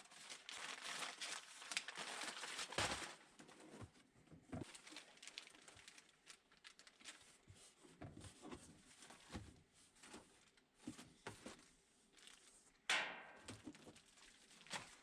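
Packaging crinkling and rustling as a parcel is unpacked, with scattered light clicks and knocks from handling, and a sharper, louder rustle near the end.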